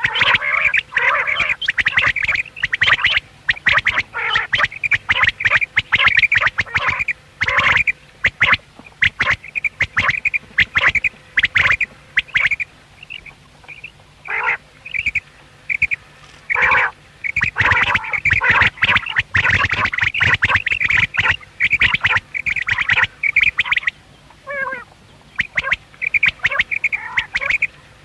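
Common quails calling over and over, several birds overlapping in dense runs of short, sharp calls. The calls thin out for a few seconds midway, then pick up again.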